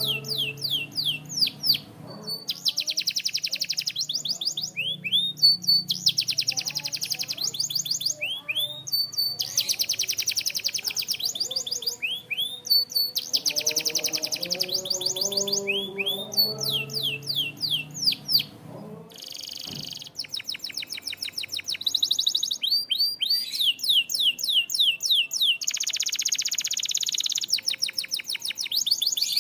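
Canary singing: long rapid trills alternating with quick downward-sweeping whistled notes, in repeated phrases, with a short pause about twenty seconds in.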